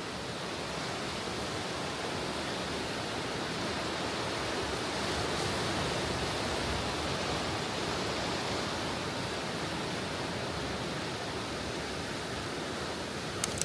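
Steady rushing of moving water, swelling a little midway, with a short click near the end.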